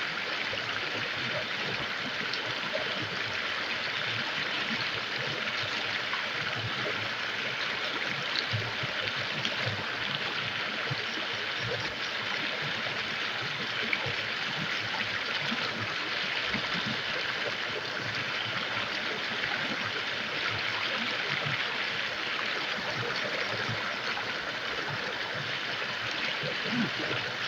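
River water flowing steadily over a shallow bed, a constant rushing.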